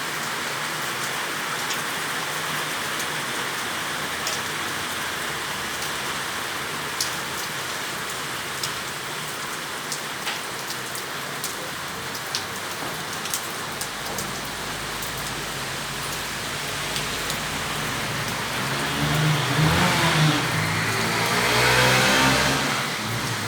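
Steady heavy rain, with single drops ticking sharply on a nearby surface. In the last third a motor vehicle approaches and passes, its engine and tyres loudest shortly before the end.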